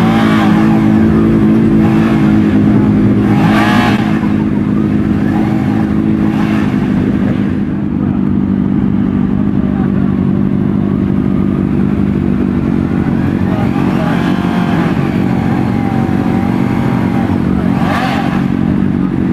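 A vehicle engine idling steadily, with a few short, louder noisy flares over it.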